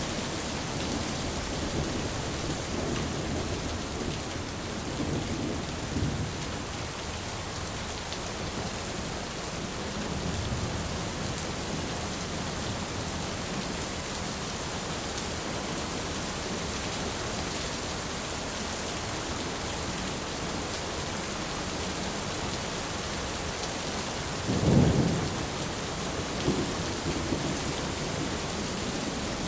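Thunderstorm: steady rain hissing throughout, with low rumbles of thunder in the first few seconds and again around ten seconds in, and a sharper, louder clap of thunder about 25 seconds in.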